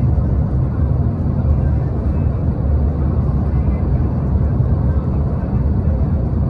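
Steady road and engine rumble of a moving vehicle, heard from inside.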